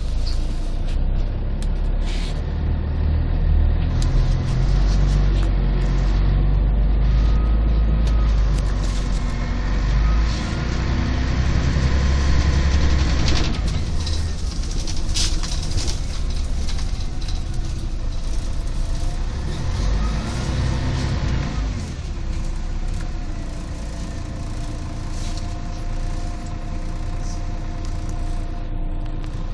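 Cabin sound of a 1998 Scania CN113CLL city bus on the move: its Scania DSC 11 diesel and Voith automatic gearbox pull with a heavy drone and a rising whine, ease off partway through with a click, pull again briefly, then run more quietly. The sound is bass-heavy and muffled from a partly covered phone microphone.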